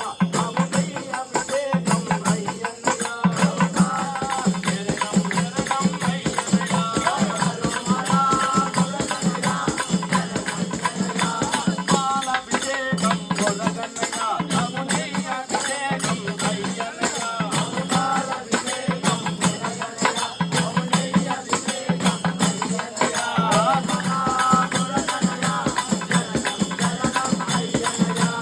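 Devotional bhajan music performed live: voices singing over a steady beat of hand percussion with jingling tambourine-like rattles.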